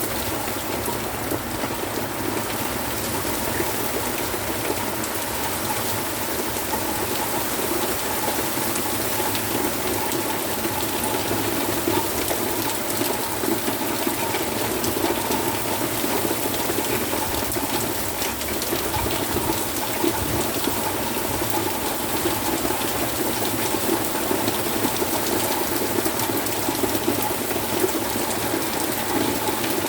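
Heavy rain pouring steadily, with many small drop impacts all through.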